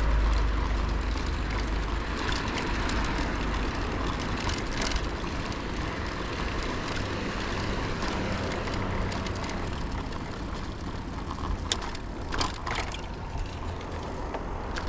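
Steady riding noise from a moving bicycle: wind rumbling on the microphone and tyres rolling on the road, with a few sharp clicks near the end.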